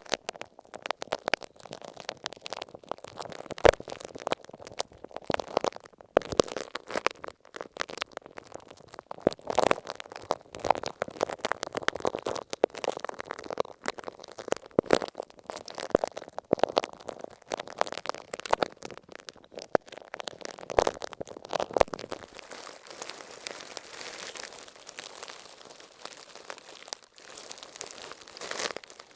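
Masking tape on an earphone microphone being rubbed and pressed with a spiky rubber ball, giving dense, irregular crinkling and crackling. About 23 s in it changes to the softer, even hiss of a shaving brush sweeping over the tape.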